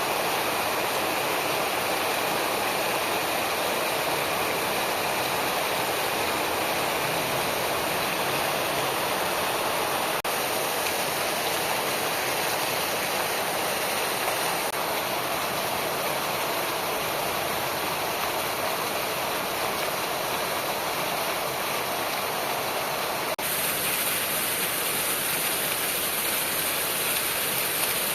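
Heavy monsoon rain falling in a steady, even hiss. The tone shifts abruptly twice, about a third of the way in and again near the end.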